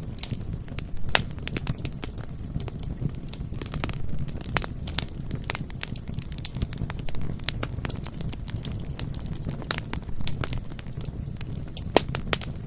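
Bonfire burning with a steady low rumble and frequent sharp, irregular crackles and pops of the burning wood.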